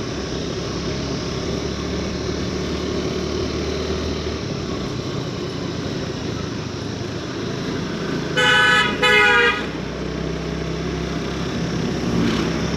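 Steady engine and road noise of a motorcycle under way. About two-thirds of the way through, two short vehicle-horn honks come in quick succession, each about half a second long and louder than the running noise.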